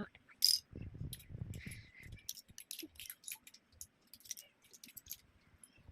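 Small plastic building bricks clicking and rattling as pieces are handled and pressed together, in a scatter of quick ticks with a few soft thumps in the first couple of seconds.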